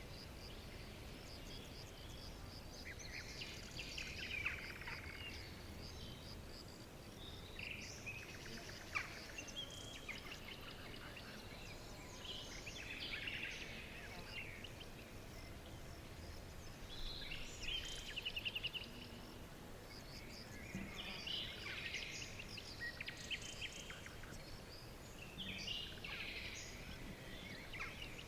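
Songbirds chirping and trilling in short, scattered phrases, including a quick run of rapidly repeated notes about two-thirds of the way through, over a steady low background hiss.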